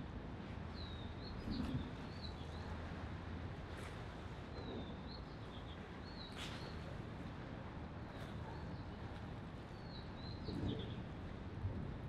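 Harbour-side pier ambience: a steady background hiss with small birds chirping in short, repeated phrases. A few sharp clicks and a couple of low thuds come through, the loudest about a second and a half in and again near the end.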